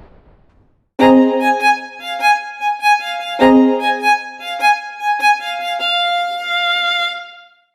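A violin melody of sustained notes that starts about a second in and fades out near the end. It follows the dying tail of a loud blast-like noise at the very start.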